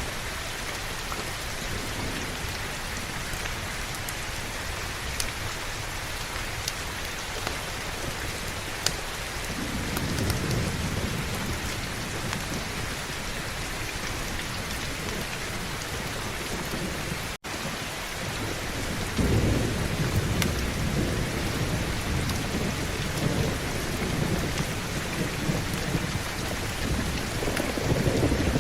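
Heavy rain falling steadily, with thunder rumbling low about ten seconds in and again, longer and louder, from about nineteen seconds to the end. The sound cuts out for an instant a little past halfway.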